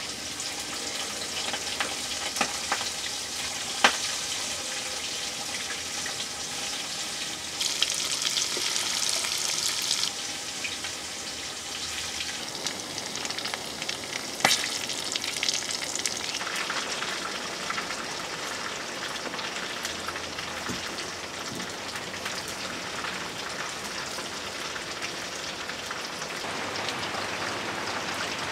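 Chicken pieces deep-frying in hot oil in a kadai: a steady sizzle and crackle with a few sharp pops. The sizzle grows louder for a couple of seconds about eight seconds in.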